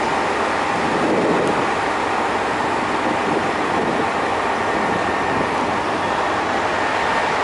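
Electric train noise at a station platform: an even, unbroken rush with a faint steady high tone running through it.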